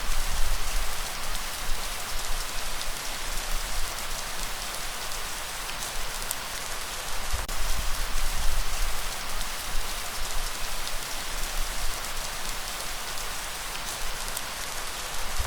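Steady heavy rain: a dense, even hiss of drops with a low rumble underneath that swells a few times.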